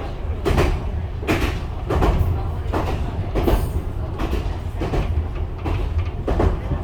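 Ichibata Electric Railway train running, heard inside the carriage: a steady low rumble with the wheels clacking over rail joints, a little more than once a second.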